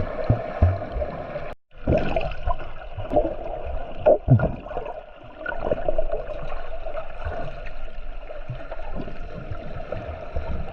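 Steady drone of a boat's motor with water gurgling and bubbling. The sound cuts out for a moment about one and a half seconds in, then resumes.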